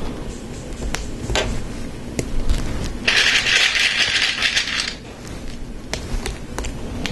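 Plastic Lego Technic pieces clicking and clattering as they are handled, with a dense rattle lasting about two seconds around the middle, like hands sifting through loose parts.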